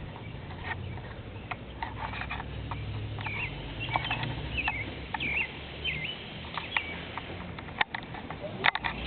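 Nestling birds cheeping in a rain gutter: a run of short, high chirps in the middle, among scattered sharp clicks and scratches.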